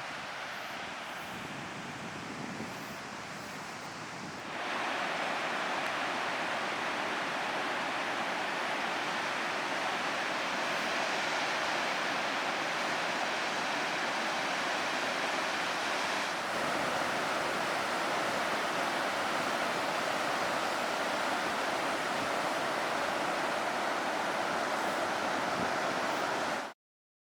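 Pacific Ocean surf rushing steadily on the shore, with wind noise on the microphone. It grows louder about four and a half seconds in and cuts off abruptly near the end.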